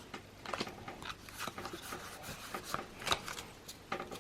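Pokémon trading cards being handled and slid past one another: a run of light, papery clicks and rustles.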